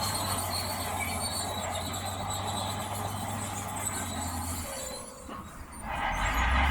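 Shantui DH17C2 crawler bulldozer working, its diesel engine running steadily under the high squeal of its steel tracks. The sound drops away about five seconds in, then comes back louder near the end.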